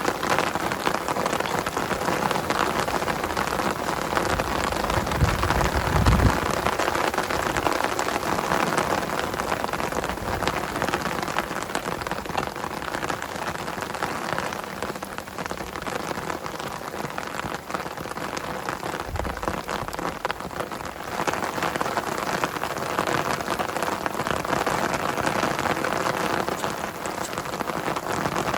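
Heavy rain falling steadily, a dense hiss of many drops. A low rumble swells about five to six seconds in and comes again briefly near nineteen seconds.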